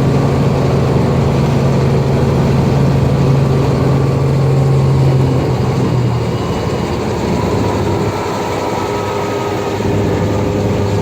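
Helicopter engine and rotor drone, loud and steady, its low hum stepping down in pitch about six seconds in.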